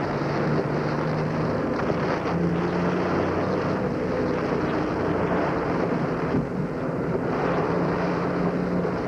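Car driving through a thunderstorm: a steady engine and road hum under the hiss of rain and wind.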